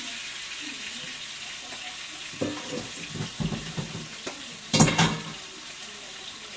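Sauce sizzling in a pan on the stove, with the clatter of a utensil against the pot starting about two seconds in and a loud clank near five seconds.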